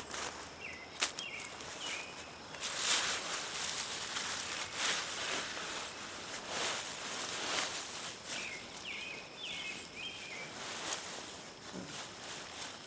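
Potato plant foliage and soil rustling and scraping as the plants are pulled back and dug, in repeated short swishes. Short high chirps come in the background every few seconds.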